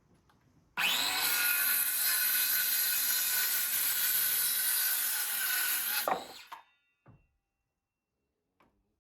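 Electric power saw starting up and cutting through a wooden post for about five seconds, then winding down with falling pitch. A short knock follows about a second later.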